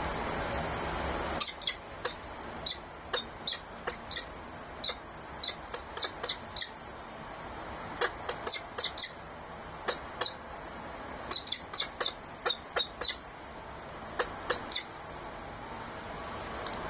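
A bird's short, high chirps, repeated in quick runs of two to four for most of the stretch. A steady rushing noise cuts off about a second and a half in, just before the chirping starts.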